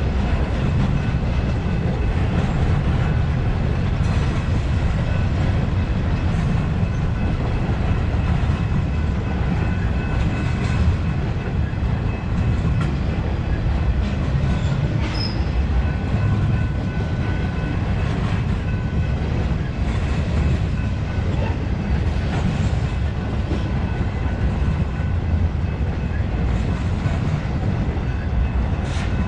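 Intermodal freight train cars, double-stack containers and trailers on flatcars, rolling past with a steady loud rumble of steel wheels on the rails.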